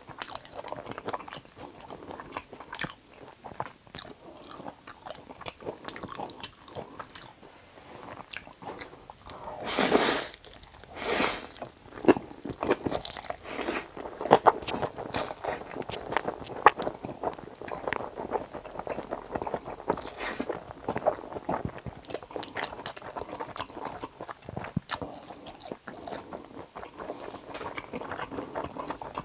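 Close-miked eating of Jjapaghetti noodles with fried eggs: steady chewing and biting with many small wet mouth clicks, and two louder, longer noisy sounds about ten and eleven seconds in.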